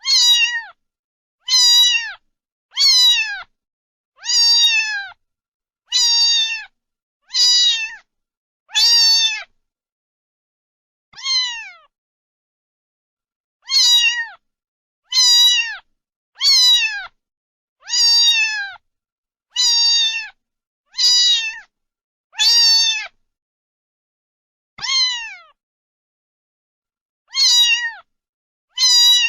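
A cat meowing over and over, about eighteen high-pitched meows a second or two apart, each falling in pitch at its end.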